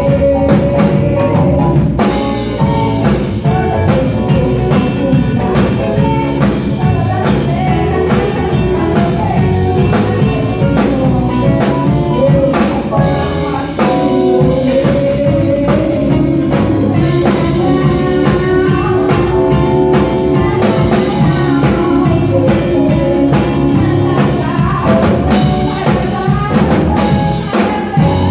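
Live band playing a rock song, a drum kit keeping a steady beat under a moving melody line.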